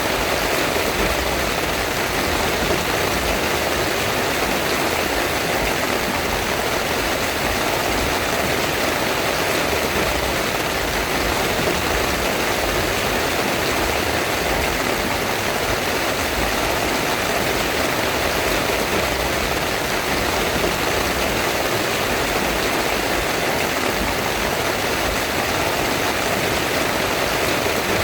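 Heavy rain falling steadily on a tent, an unbroken even roar with no let-up.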